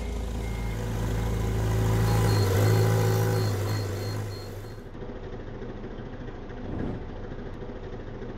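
A vehicle engine running, growing louder to about three seconds in and then dying down, leaving a thinner, steady engine hum.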